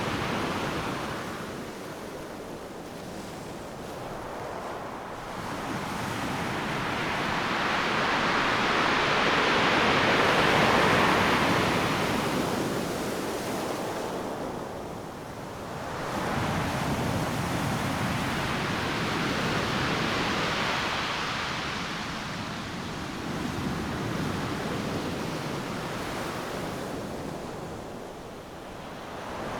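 Ocean surf breaking on a beach: a steady hiss of waves that swells and ebbs in long surges, loudest about a third of the way through and again past the middle, with quieter lulls between.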